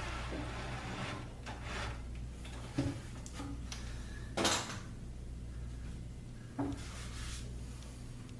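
Short knocks and a brief scrape of drawer-slide hardware and wooden spacer blocks being handled against the cabinet, the loudest about four seconds in, over a steady low hum.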